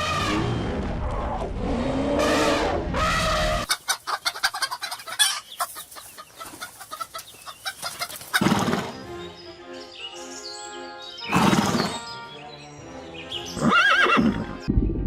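Domestic fowl calling loudly, a run of repeated calls at the start and single calls about 8, 11 and 14 seconds in, over background music.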